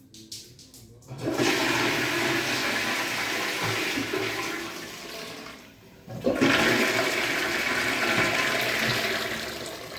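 Water rushing through newly installed plumbing in two loud surges: each starts suddenly, about a second in and again about six seconds in, and tails off over a few seconds.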